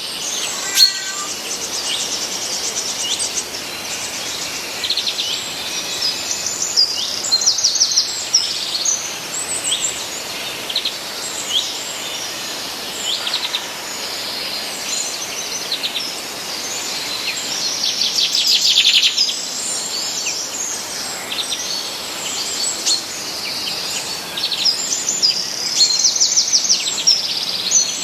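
Songbird chorus: many birds chirping and trilling at once, with quick repeated-note phrases, over a steady hiss.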